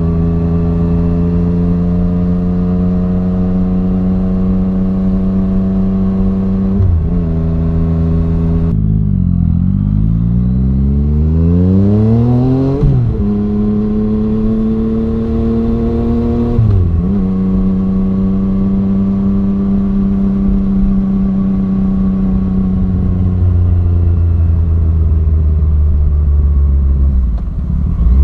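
Yamaha MT-09's three-cylinder engine through an Arrow Thunder full-system exhaust, under way with the engine pitch slowly climbing. Brief dips mark gear changes about 7 and 17 seconds in; between them the revs climb sharply for several seconds before another shift, and the engine note falls away near the end.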